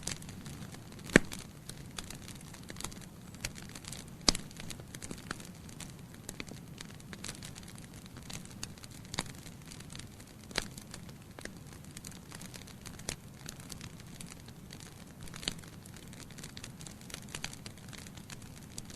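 Wood logs burning in a fireplace, crackling steadily with irregular sharp pops over a low rumble of flame; the two loudest pops come about a second in and about four seconds in.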